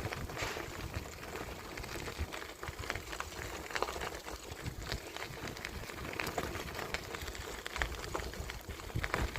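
Bicycle rolling along a path: a steady crackle of tyre noise with many small irregular ticks and rattles, over a low rumble.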